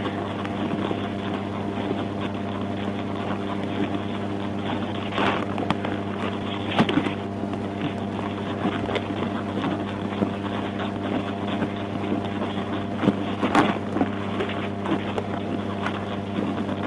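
Vehicle engine idling steadily, with a few faint knocks.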